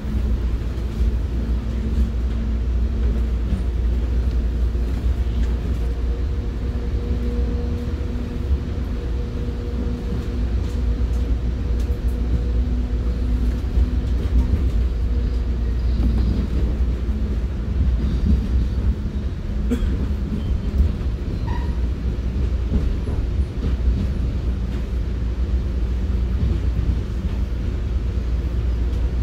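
Commuter train heard from inside a passenger coach while under way: a steady low rumble of wheels on rail with a faint hum through the first half and a few light clicks about two-thirds of the way in.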